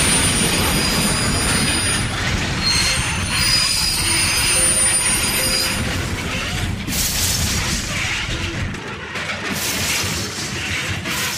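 Heavy train rumble with the high, steady squeal of steel wheels on rail. The low rumble cuts out about nine seconds in, leaving a few rushing, grinding bursts.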